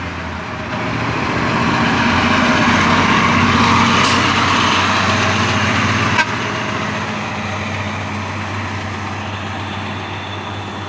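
Heavy diesel truck engines labouring uphill under load, a dump truck pushing a loaded truck from behind. The engine noise swells over the first few seconds and eases after about six seconds, with one sharp click near six seconds.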